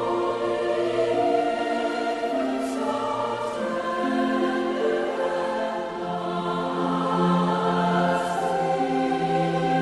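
Choral Christmas music: a choir singing slow, sustained notes.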